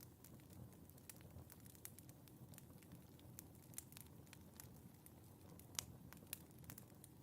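Wood fire crackling in a fireplace, quiet: irregular small pops and snaps over a low rumble of the flames, with one sharper pop about six seconds in.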